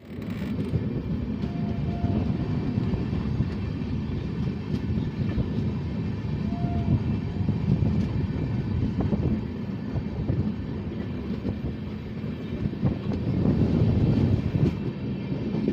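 Indian Railways passenger train, the 14006 Lichchhavi Express, running with a steady low rumble of wheels and coaches and scattered clicks, growing louder near the end; a couple of short high tones sound about two seconds in and again near seven seconds.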